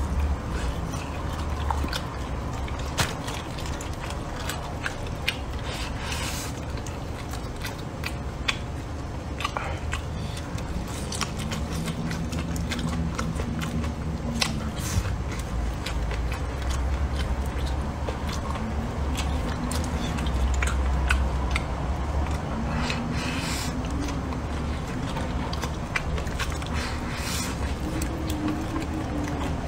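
Close-miked eating sounds from a person chewing and biting braised pork ribs and rice, with many wet mouth clicks and smacks over a steady low hum. A few short, low hums of the voice come through around the middle and near the end.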